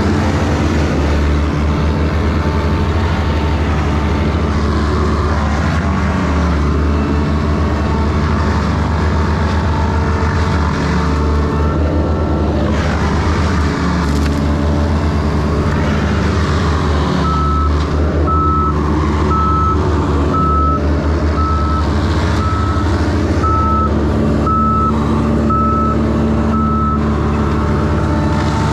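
Heavy vehicle's engine running steadily with a low drone. In the second half its backup alarm beeps about once a second, the vehicle reversing.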